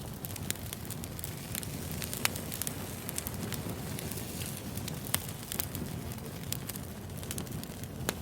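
Wood fire crackling: a steady low rush of flames with frequent sharp, irregular pops and snaps from burning logs.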